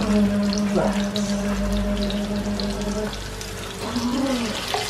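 Breaded beef cutlets sizzling as they shallow-fry in hot oil in a pan. A steady pitched tone sounds over the frying for about the first three seconds, and a short wavering one comes about four seconds in.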